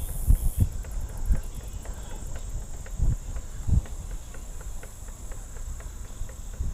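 Wind buffeting the microphone of a camera on a moving bicycle: a low, uneven rumble with occasional thumps. Under it a faint, high, rapid ticking begins about half a second in.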